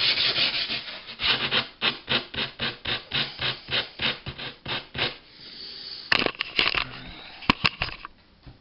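Sandpaper wrapped on a sanding cork rubbed back and forth along the edge of a homemade freezer shelf, in quick, even strokes of about five a second that slow and fade, followed by a few sharp clicks near the end.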